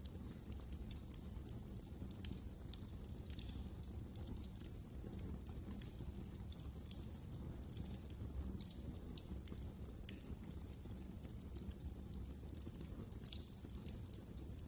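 Wood fire burning in a fireplace: irregular crackles and small snaps over a steady low rumble of the flames.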